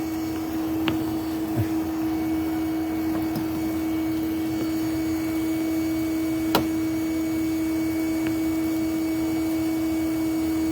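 A vacuum running with a steady hum. A few light knocks sound over it, with one sharp knock about six and a half seconds in.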